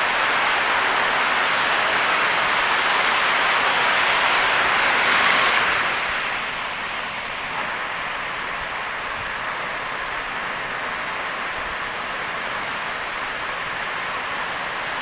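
Steady rush of heavy rain and tyre spray from a car driving on a rain-soaked expressway. The hiss swells briefly about five seconds in, then drops to a quieter, duller rush.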